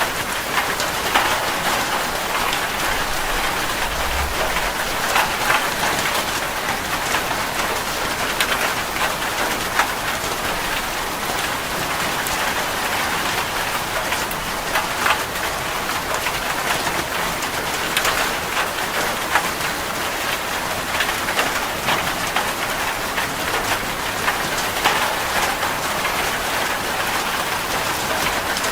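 Steady rain falling on a surface, an even hiss of many close drops with small swells in intensity.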